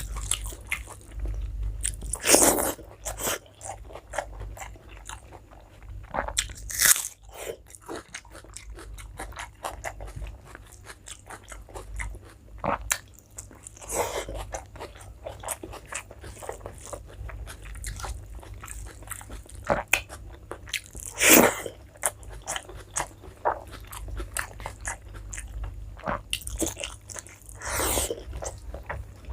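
Close-miked eating: steady chewing and wet mouth clicks over mouthfuls of rice and curry, with a louder mouth sound every five to seven seconds.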